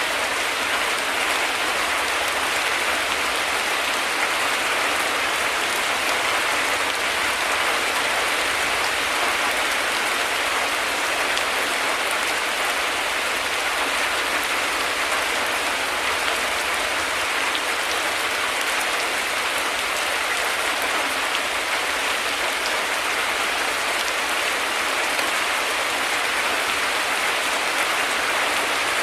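Heavy rain falling steadily, an even hiss of downpour that does not change throughout, with no thunder.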